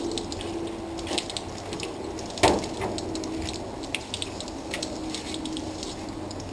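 Irregular light scratching and clicking with one sharp knock about two and a half seconds in, over a steady low hum.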